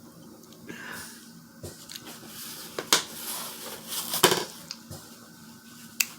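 Handling of food and utensils at a seafood-boil meal: a few sharp clicks and knocks of dishes or cutlery with rustling in between, loudest about three and four seconds in.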